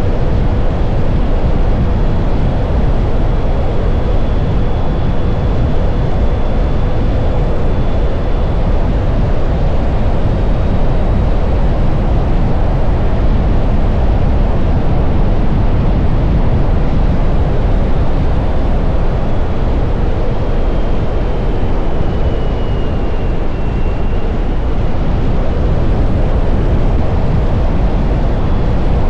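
Steady wind rush on the microphone from riding at speed on an electric motorcycle, with no engine sound, and a faint thin whine that dips in pitch a little past two-thirds of the way through.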